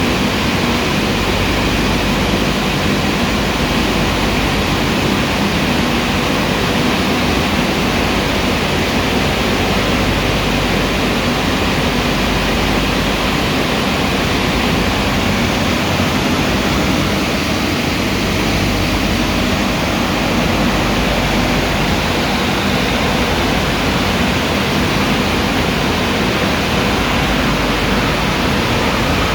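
Car Beautician BMC Royal Waxer rollover car wash running: a loud, steady rush of noise with a faint low hum underneath, unchanging throughout.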